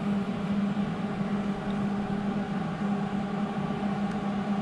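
Welder's cooling fan running with a steady hum, the welder switched on but not welding.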